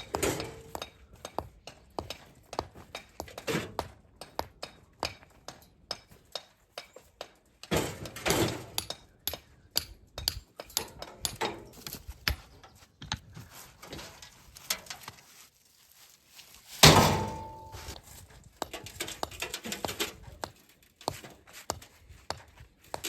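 Irregular knocks and clinks of things being handled, with one loud ringing clank about two-thirds of the way through.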